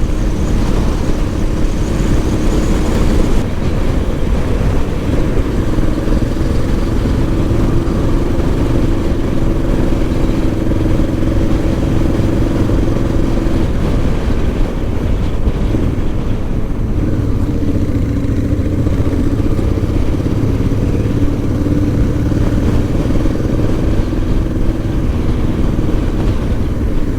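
Honda Transalp twin-cylinder motorcycle engine running steadily at cruising speed, with wind rush over the rider's microphone. The engine note briefly drops a little past halfway, then picks up again.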